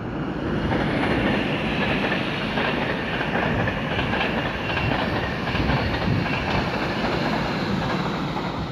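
Electric locomotive-hauled passenger train passing close by at speed: a steady rumble and hiss of steel wheels on rail, with some clatter of wheels over rail joints.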